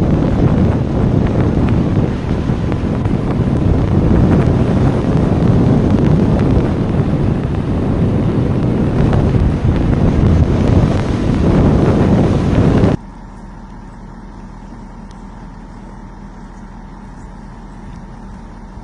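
Steady rumble of a vehicle on a snowy highway, mixed with wind noise on the microphone. About thirteen seconds in it cuts off suddenly, leaving a much quieter steady hum.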